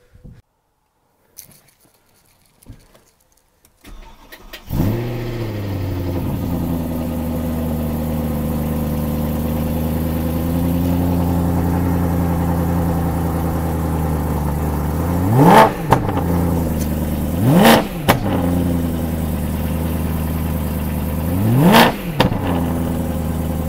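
BMW E9x M3's 4.0-litre V8 starting about five seconds in, flaring and settling into a steady idle. It is then revved three times in quick blips near the end, each rising and falling sharply.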